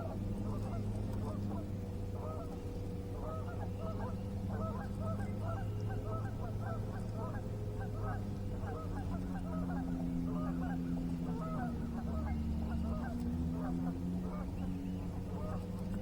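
A flock of geese honking, many short calls overlapping several times a second, over a steady low hum.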